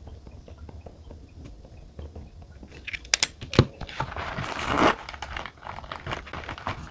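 Paper and stationery being handled at a desk: scattered small clicks and taps, a few sharp clicks about halfway through, then a rustle or crinkle lasting about a second.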